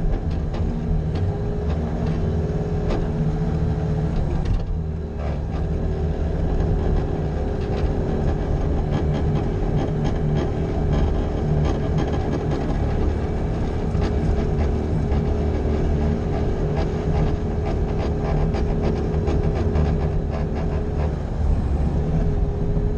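Bobcat skid-steer loader running steadily while plowing snow, a constant whine over the engine drone. The sound dips briefly about five seconds in.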